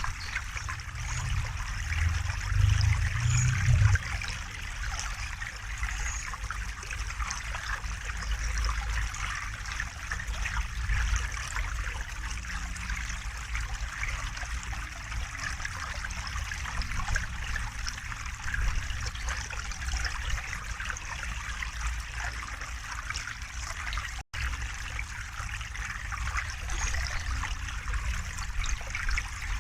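River water flowing steadily over stones, a continuous rushing and trickling with a low rumble that swells briefly a few seconds in. The sound drops out for a split second about 24 s in.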